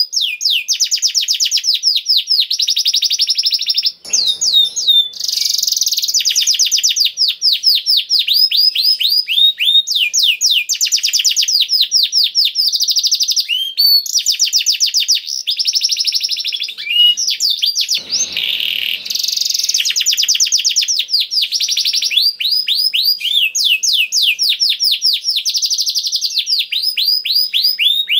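Domestic canary singing a long, unbroken song of fast trills, each made of rapid repeated high notes, switching from one trill to the next every second or two.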